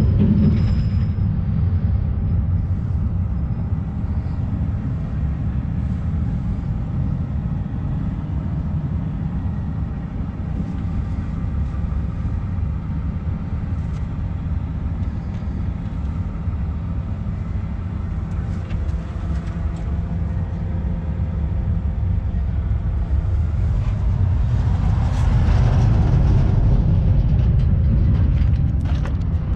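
Heavy truck's diesel engine running steadily with a low rumble, growing louder about 24 seconds in.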